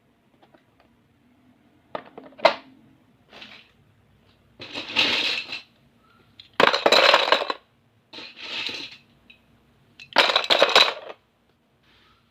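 Small hard stationery items and sharpeners clattering and rattling together in about six bursts of up to a second each, with a sharp click about two and a half seconds in.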